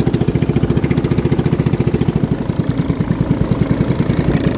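Boat engine running steadily with a rapid, even pulse of about a dozen beats a second.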